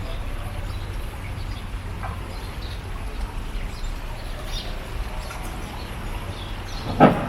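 Birds chirping sporadically over a steady low rumble, with one short loud sound near the end.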